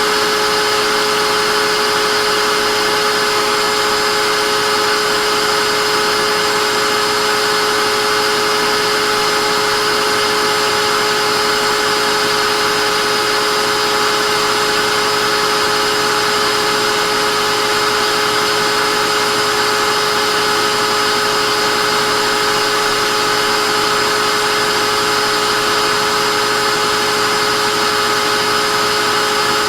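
Vacuum cleaner motor running steadily, a constant whirring hiss with a high whine in it that never changes.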